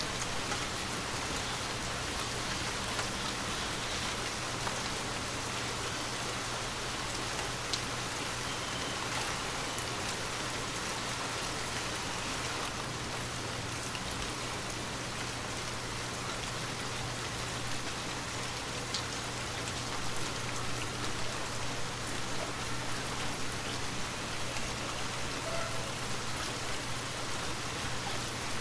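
Steady rain falling, an even hiss with a few scattered drops standing out, and a low steady hum beneath it.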